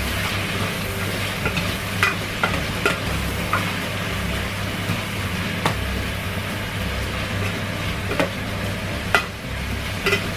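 Chicken pieces sizzling as they sauté with ginger, onion and garlic in a stainless steel pot, stirred with a spatula that clinks sharply against the pot now and then.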